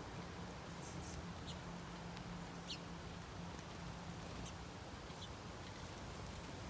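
Small songbirds giving a few short, high chirps at irregular intervals, one with a quick downward slur about two and a half seconds in, over a steady low hum.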